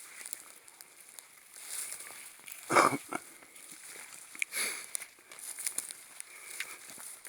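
Steps and rustling through forest-floor leaf litter, with many small crackles and snaps, and a louder brief rustle about three seconds in and again near five seconds.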